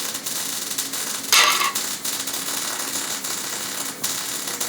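Hand-tool work on a hay baler: a steady clattering of metal tools, with one loud metallic clank about a second and a half in.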